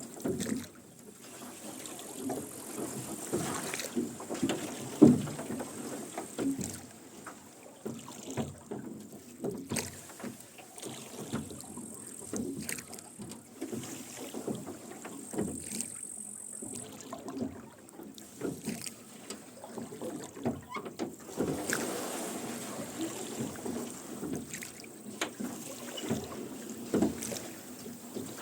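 Rowing a rowboat: oarlocks creaking and knocking, with oars splashing in the water, in an irregular run of short sounds.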